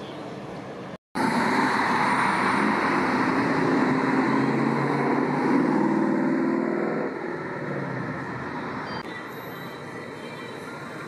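Dodge Challenger's engine and exhaust running loud at close range, with a brief dropout in the sound about a second in. It eases off about seven seconds in, leaving steady street traffic noise.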